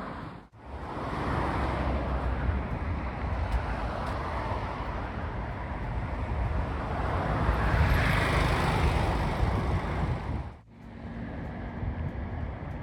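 Motorway traffic, a steady rush of tyres and engines, with one vehicle passing loudest about eight seconds in.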